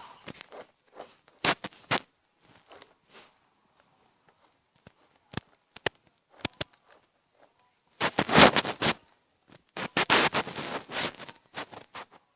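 Drawing implement scratching on paper: a few short strokes, then a quiet stretch with a few faint clicks, then two runs of quick dense strokes in the second half.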